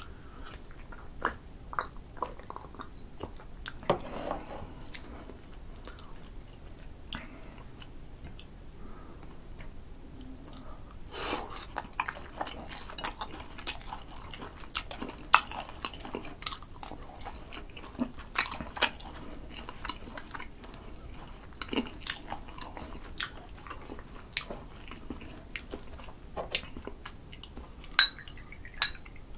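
Close-miked chewing and biting of grilled sea eel in spicy sauce, with soft wet mouth sounds and many sharp little clicks, busier in the second half. Near the end a soju bottle taps against a shot glass with a brief ring.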